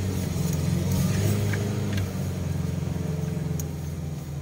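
Car engine running, heard from inside the cabin, with a steady low drone that eases off gradually as the car slows.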